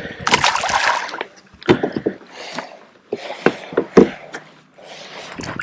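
Irregular splashing, rustling and handling noise in a kayak, with several sharp knocks. The loudest knock comes about four seconds in.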